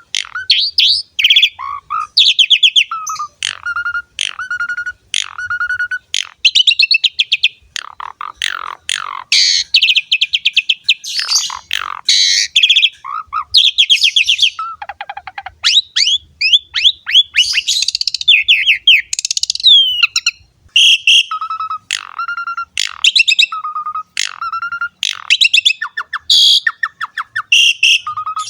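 Asian pied starling (jalak suren) singing without let-up, a fast, varied song of short whistled notes, rapid trills and chattering phrases with only brief pauses.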